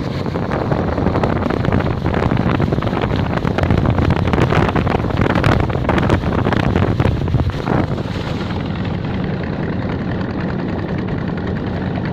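A ship's engine droning steadily under loud wind buffeting the microphone. The buffeting grows heavier through the middle and eases off after about eight seconds.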